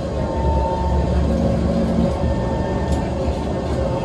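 Singapore MRT train running along an elevated track, heard from inside the carriage: a steady rumble with a continuous whine, the rumble swelling for a second or so near the start.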